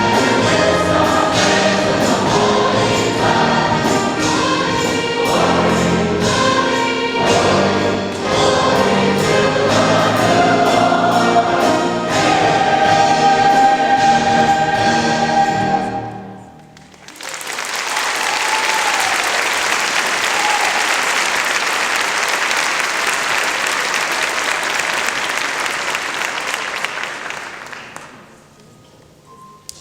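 A choir singing with a big band, brass included, finishing a song on a long held note about sixteen seconds in. Then an audience applauds for about ten seconds, dying away near the end.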